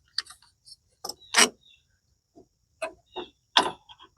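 Metal lawn tractor parts clinking and knocking as they are handled and fitted together: several short, sharp clanks, the loudest about one and a half seconds in.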